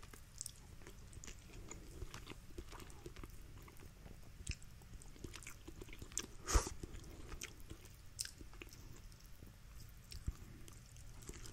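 Faint chewing and small wet mouth clicks of a person eating, with rotisserie chicken meat being pulled apart by hand. Scattered soft clicks throughout, one sharper click about six and a half seconds in.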